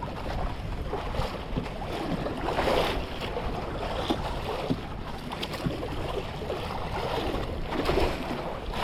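Strong wind buffeting the microphone over choppy waves slapping and splashing against a small boat.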